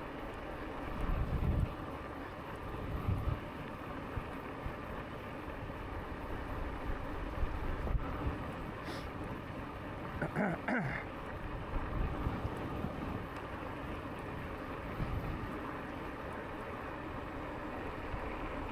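Wind buffeting the microphone over the steady rumble of a moving e-bike, with low gusts coming and going. A brief falling whine sounds about halfway through.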